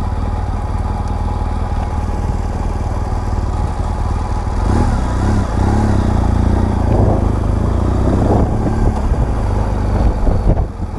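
BMW R1200GS Adventure's boxer-twin engine running, heard through a microphone inside the rider's helmet. The rumble grows louder and more uneven from about halfway through.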